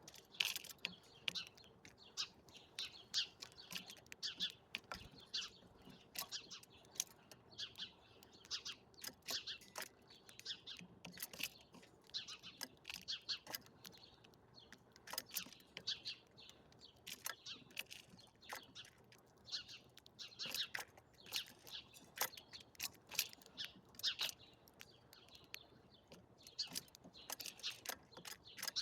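Small birds chirping: a continual run of short, high chirps, several a second, without a pause.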